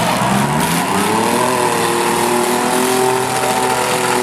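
Racing vehicles' engines running hard on the track. The engine pitch rises about a second in, then holds steady.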